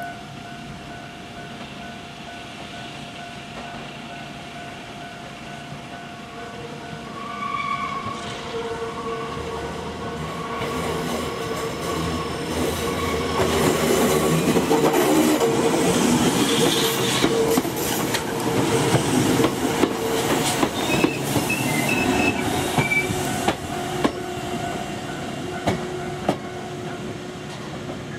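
Nose Electric Railway 5100 series electric train approaching and passing, growing louder from the middle on, its wheels clattering over rail joints with brief high wheel squeals on the curve.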